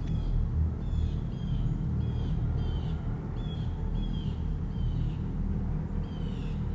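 A bird calling over and over, short high chirps that drop in pitch, about two a second, over a steady low rumble.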